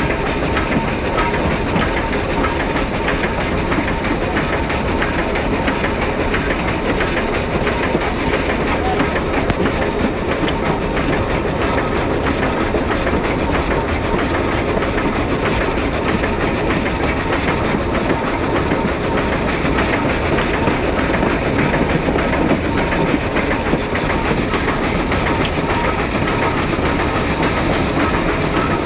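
Steam-hauled passenger train rolling along, heard from an open observation car: steady wheel-on-rail noise that does not let up.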